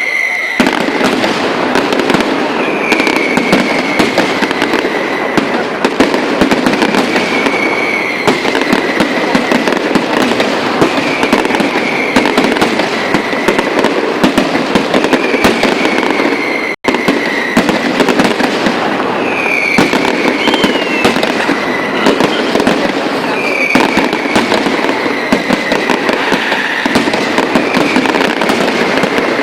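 Night fireworks display: a dense, continuous crackle of exploding firecrackers and shells, with a whistle sliding down in pitch every two to three seconds.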